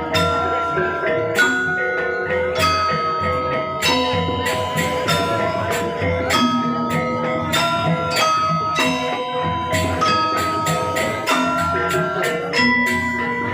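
Balinese gamelan playing: bronze metallophones struck in a quick, steady run of ringing notes over a low, sustained bass.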